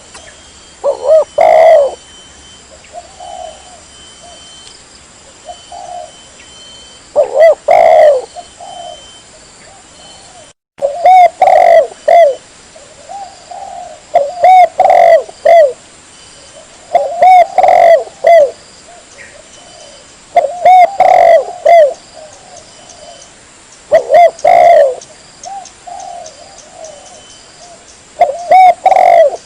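Spotted dove (tekukur) cooing: loud phrases of a few coos recur every three or four seconds, with softer coos in between. The sound cuts out briefly about ten seconds in.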